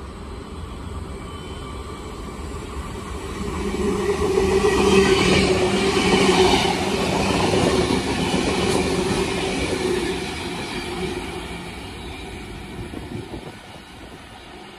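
Stainless-steel double-deck electric suburban train passing close by, its wheels running on the rails with a steady hum. It grows loud through the middle and fades as the train moves away.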